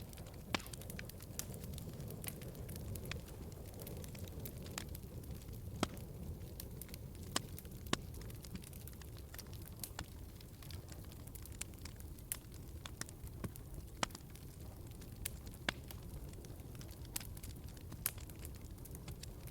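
Wood fire burning in a fireplace: a steady low rumble of flames with irregular crackling and several sharp pops.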